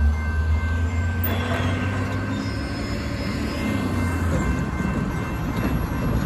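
Metrolink commuter train approaching the crossing: a steady low rumble with faint, steady high-pitched tones over it.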